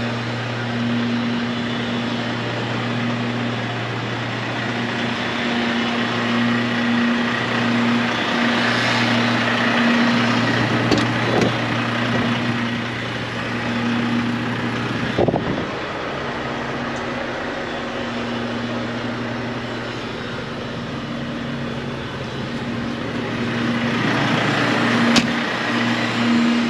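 Volvo D13 diesel engine of a dump truck idling steadily, a low even hum with a few sharp clicks.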